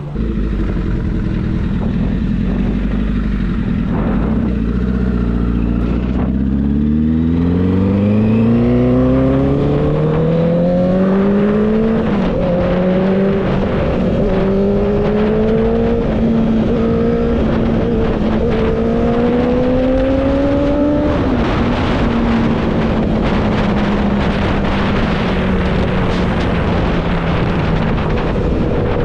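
Vehicle engine accelerating: its note climbs steadily, dips briefly at gear changes and climbs again, then eases off slowly after a last change. Steady road and wind noise runs underneath.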